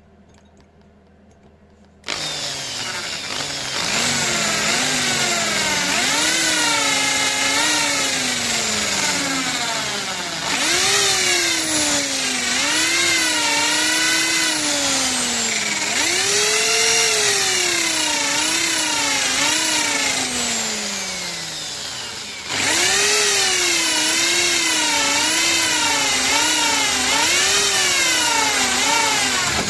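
Electric power tool motor running after starting about two seconds in, its pitch repeatedly rising and falling as speed and load change, easing off briefly twice.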